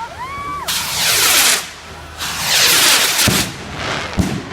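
Fireworks going off: two long bursts of loud crackling hiss about a second each, then a few short low thuds from bangs in the second half.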